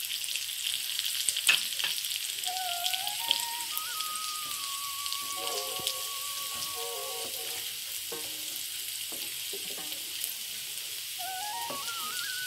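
Oil sizzling steadily in a frying pan as a spatula stirs fried prawns through sautéed onion and capsicum, the spatula scraping and clicking against the pan.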